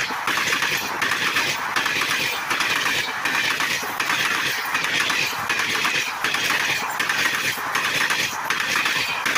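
Coaches of a diesel-hauled passenger train rolling past at speed close by: steel wheels rumbling and clattering on the rails, with a regular beat a little faster than once a second.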